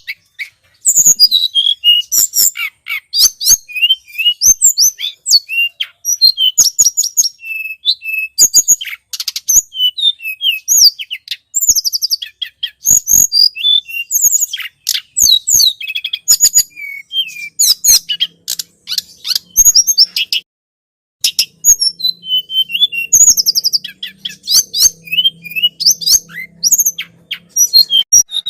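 Rapid, high-pitched chirping and ticking calls of a flowerpecker (tledekan gunung), packed closely together as a bird-lure recording, with one brief break about two-thirds of the way through.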